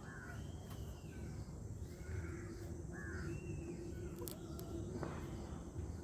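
A few short bird calls, each a brief arched squawk, over low background rumble.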